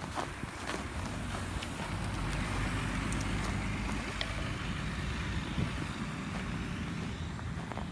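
Road traffic passing, with a low rumble and hiss that swells through the middle as vehicles go by, and a few faint clicks.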